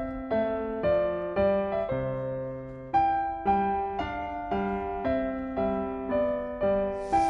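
Background piano music: a slow, gentle melody of single struck notes, about two a second, each ringing and fading.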